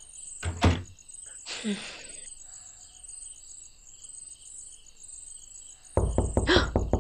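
Crickets chirping steadily in a night-time sound bed. A thump comes about half a second in, and near the end a loud, rapid pulsing burst takes over.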